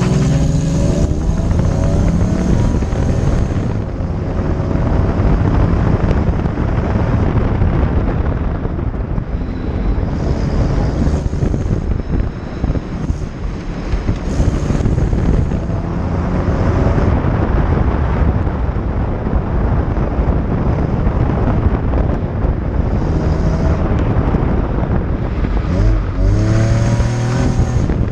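Car engine working hard through an autocross run, the revs climbing and dropping repeatedly as it accelerates, shifts and brakes between cones, over steady road and wind noise. The engine climbs sharply at the launch and again near the end.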